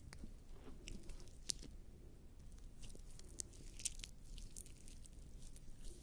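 Wet, sticky clicks and squelches of lubricant jelly on bare skin rubbing against a binaural microphone's ears. The clicks are irregular and scattered, with a few sharper ones.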